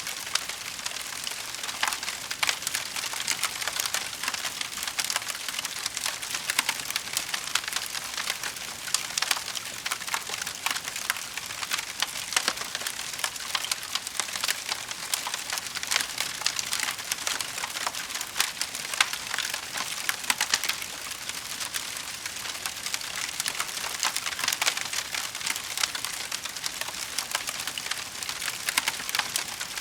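Wood fire crackling in a fireplace: a steady, dense stream of small pops and snaps over a soft hiss.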